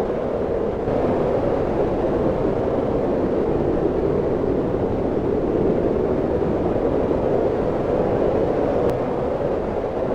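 Wind blowing steadily: a continuous low, deep rushing noise that grows a little louder about a second in.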